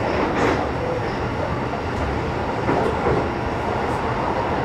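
Sanyo Electric Railway 6000 series electric train running at speed, heard from inside a trailer car: a steady running noise with a few sharp clicks.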